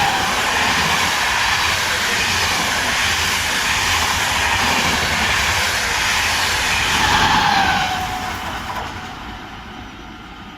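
A train passing through the station without stopping: loud, steady rushing wheel and rail noise with a few brief high squeals. It dies away from about eight seconds in.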